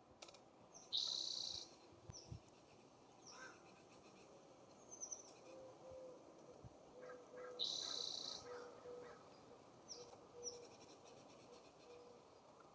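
Birds at a feeder: two loud, harsh, raspy calls, about a second in and again near eight seconds, typical of a California scrub-jay, with short high chirps from smaller birds between them. A faint low note repeats about once a second through the second half.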